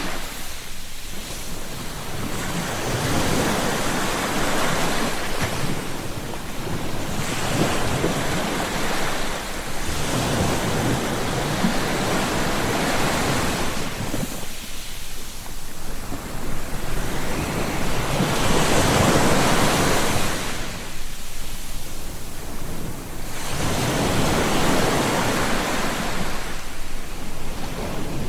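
Ocean surf: waves breaking and washing in one after another, the rush swelling and fading about every five to six seconds.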